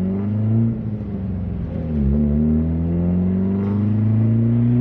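Turbocharged Honda D15B 1.5-litre four-cylinder accelerating hard. The engine note sags and dips as it changes gear about two seconds in, then climbs steadily as it pulls in the next gear.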